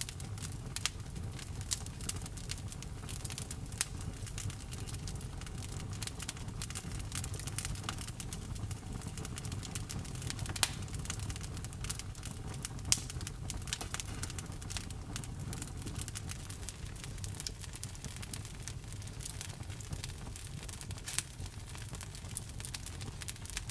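Burning wood in a campfire crackling, with irregular sharp pops, a few louder ones about halfway through, over a steady low rumble.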